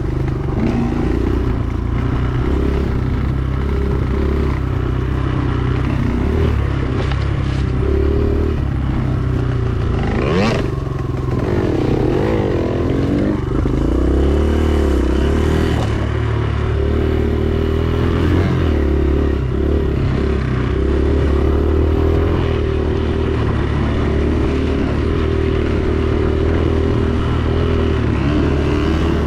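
Dirt bike engine running as it is ridden along a trail, its pitch rising and falling with the throttle, with one sharp rev up and back down about ten seconds in. Rattling and scraping of the bike over rough ground run along with it.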